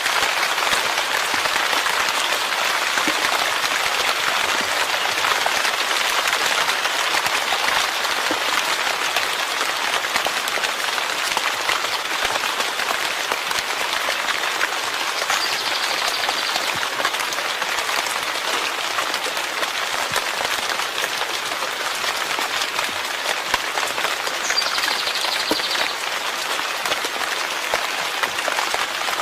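Steady heavy rain, a dense, even patter of drops. Two faint, brief high tones sound over it, one about halfway through and one near the end.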